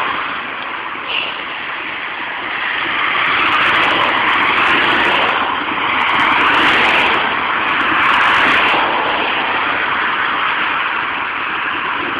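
Road traffic: cars passing one after another, their tyre and engine noise swelling and fading several times.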